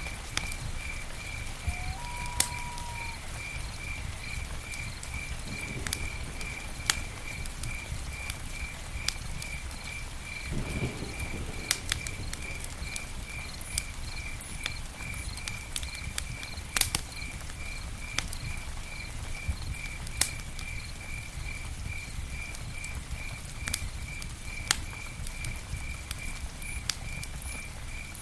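Campfire burning with a low rumble and scattered sharp crackles and pops. A cricket chirps steadily about twice a second throughout, and a brief whistled note sounds about two seconds in.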